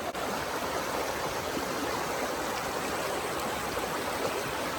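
Steady rush of flowing stream water, an even wash of noise without change.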